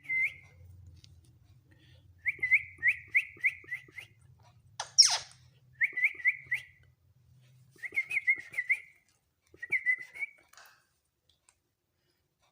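Green ringneck parrot whistling: quick runs of four or five short rising whistle notes, broken by one sharp, loud screech about five seconds in. The whistling stops a little before the end.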